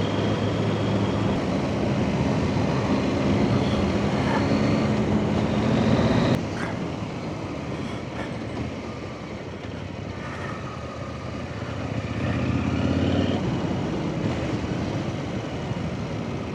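Off-road trail motorcycle engine running on the move over a steady rushing noise; the engine note builds over the first few seconds, drops away abruptly about six seconds in, and rises again later.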